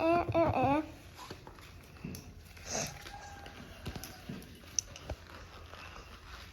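A high, wavering vocal cry lasting under a second at the start, then only faint taps and rustles.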